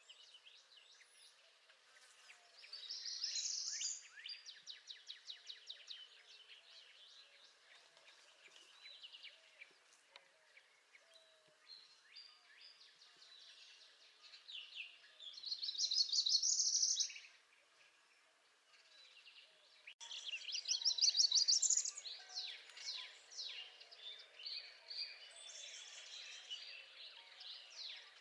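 Northern parula singing three times: rapid rising trills that climb high in pitch. Other birds chirp and trill softly in between.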